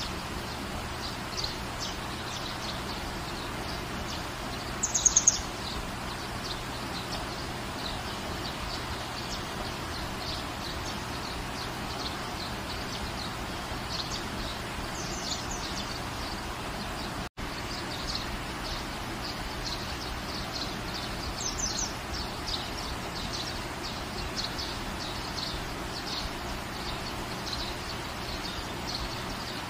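Steady rain falling, with small birds chirping again and again over it and a louder run of quick chirps about five seconds in. The sound drops out for an instant about two-thirds of the way through.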